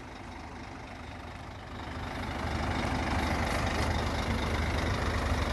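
Scania diesel engine running steadily at idle, a low rumble that grows louder about two seconds in.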